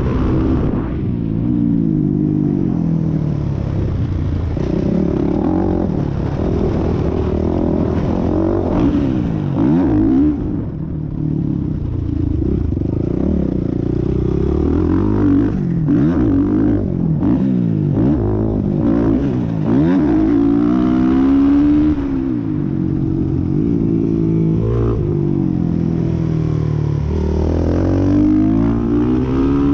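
Onboard sound of a Suzuki 450 supermoto's single-cylinder four-stroke engine at racing pace. The revs climb and drop again and again as the bike accelerates through the gears and slows for corners.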